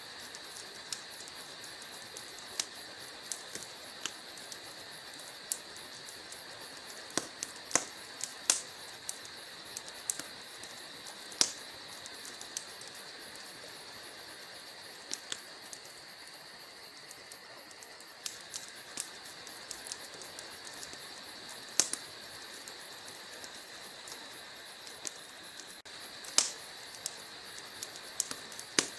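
Logs burning in a fireplace, crackling with irregular sharp pops and snaps, a few of them louder, over a steady high hiss.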